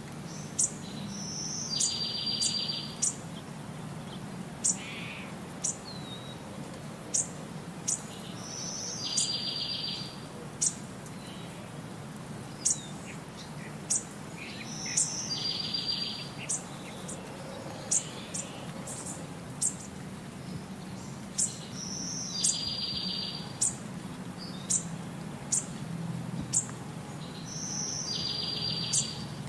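Birds chirping: sharp high chirps throughout, with a short rapid trill returning about every six to seven seconds in a regular, looping pattern, over a steady low hum.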